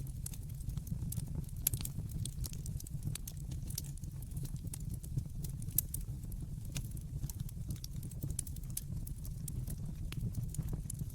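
Wood fire crackling in a fireplace: frequent irregular snaps and pops over a steady low rumble.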